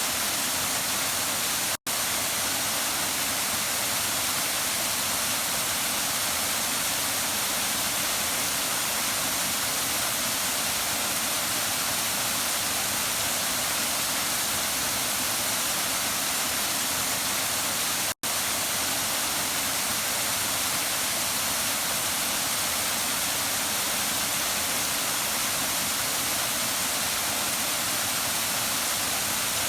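Waterfall's steady rush of falling water, an even hiss heavy in the high end. It cuts out for an instant twice, about two seconds in and near the middle.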